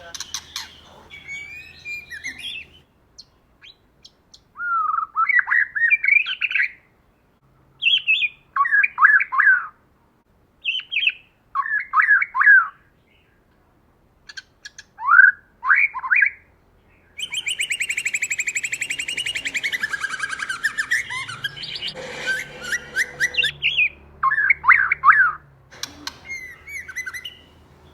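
White-rumped shama singing: short, varied whistled phrases separated by pauses, then a long, rapid, buzzy chattering run about two-thirds of the way through, followed by more whistled phrases.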